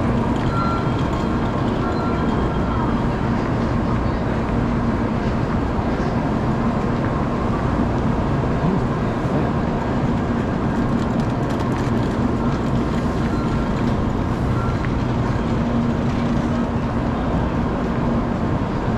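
Steady drone of a Tokaido Shinkansen train standing at the platform: a constant low hum with a fainter higher tone over an even wash of station noise.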